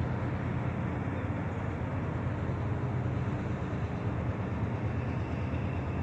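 Steady low engine drone, an even hum with a constant rumble that neither rises nor falls.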